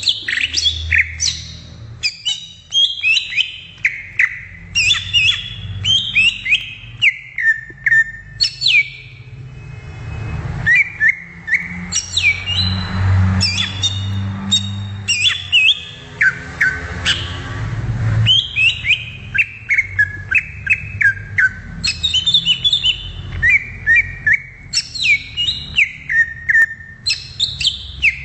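Green leafbird (cucak ijo) singing a fast, varied run of sliding whistles and chirps with brief gaps, over a low rumble.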